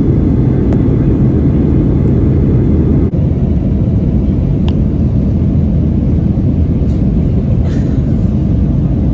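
Loud, steady low rumble of a vehicle in motion, heard from inside it, with a brief break about three seconds in and a few faint clicks later.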